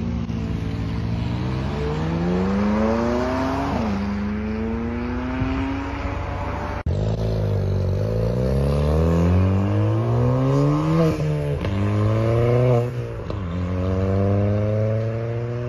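Car engines accelerating hard: first an orange supercar revving up, its pitch climbing to a gear change about four seconds in; then, after a cut, a red hatchback pulling away through the gears, the engine note rising and dropping at several quick upshifts near the end.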